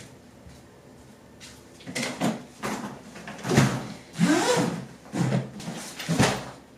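Handling noises: a series of short knocks and scrapes, with a brief creak about four seconds in.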